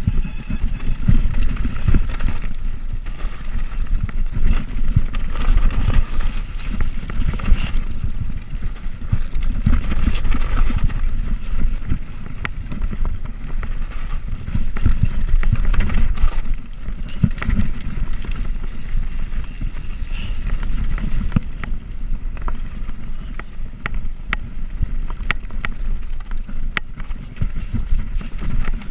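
Wind buffeting the microphone and a steady rumble while riding a bicycle, with frequent small clicks and rattles from the bike.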